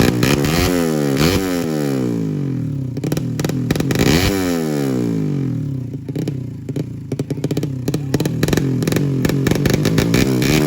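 Racing-tuned Honda Blade 150cc motorcycle engine revved in three quick throttle blips, the pitch jumping up and falling back each time, then settling back to a lower, uneven idle.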